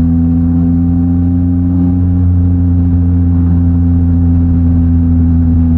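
Yamaha MT-09 SP's inline-three engine through a Mivv X-M50 exhaust, running at a steady engine speed while riding, its pitch holding constant with no revving.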